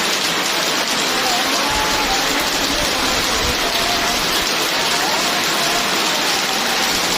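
Steady, heavy rain falling, a dense even hiss with no break. A faint wavering tone drifts under it.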